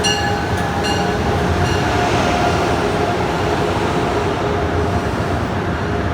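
MARC commuter train standing at the platform: a steady locomotive rumble and hum, with a few short metallic rings in the first two seconds and a brief hiss around two seconds in.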